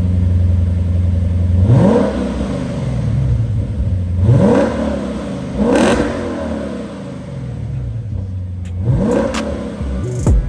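Lexus GS-F's 5.0-litre V8 running with its mufflers removed (muffler delete), idling and then revved four times, each rev rising in pitch and falling back to idle.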